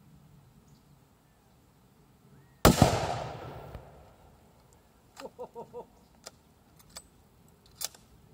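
A single shot from a .340 Weatherby Magnum rifle fitted with a Mercury recoil reducer: one sharp crack with a long echoing tail. A few light clicks follow some seconds later.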